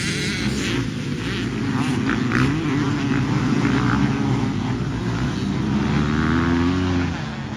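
Dirt bike engine running and revving, its pitch climbing over the last couple of seconds before it drops away.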